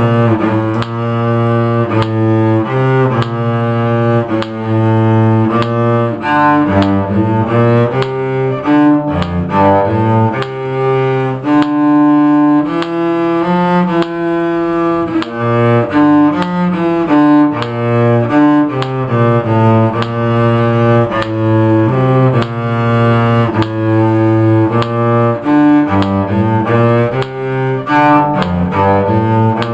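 Cello playing a bowed melody in steady time, stepping from note to note, over a regular metronome click.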